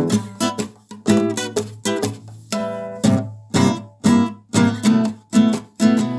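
Acoustic guitar strummed in a steady rhythm, about two strokes a second, each chord ringing and fading before the next: the instrumental intro to a song.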